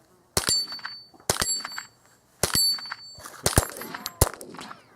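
A .22 rimfire fired about five times at an unhurried pace, each sharp report followed by the ring of a struck steel target.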